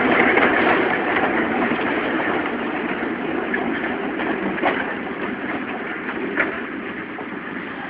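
Two-foot gauge train rolling along the track, a steady rumble and clatter of its wheels on the rails with a couple of sharp clicks, gradually getting quieter.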